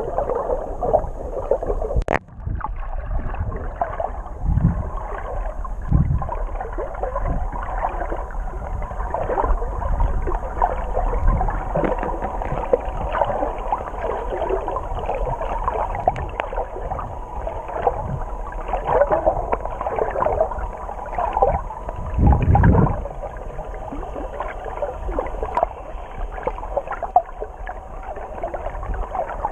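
Muffled underwater sound of sea water moving around a submerged camera, with gurgling and bubbling. It drops out briefly about two seconds in, and there is a louder surge about twenty-two seconds in.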